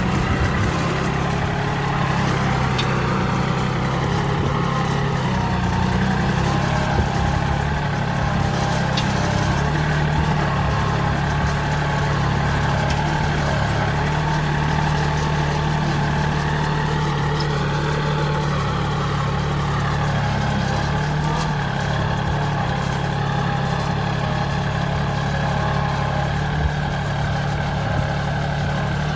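40 hp Yanmar tractor's diesel engine running steadily while pulling a share plough, its pitch rising briefly and falling back about two-thirds of the way through.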